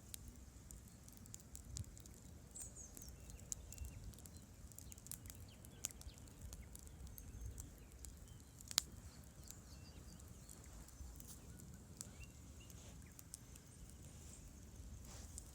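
Campfire burning with scattered small crackles and one sharper pop about nine seconds in, over a low steady rumble.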